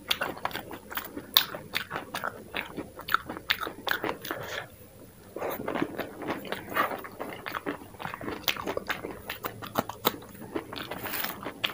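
Close-miked chewing and crunching of dahi puri and its toppings: many crisp crunches mixed with wet mouth sounds, easing off briefly about five seconds in.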